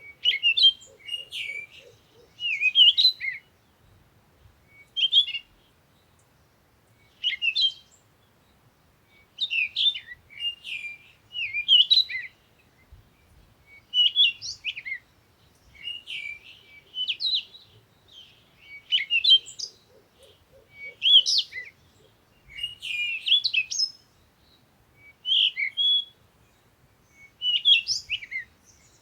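Small songbirds chirping and singing in short, quick twittering phrases, one burst every second or two with brief pauses between.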